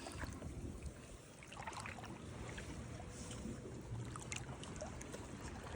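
Faint, steady wash of sea water lapping at the shore, with scattered small clicks.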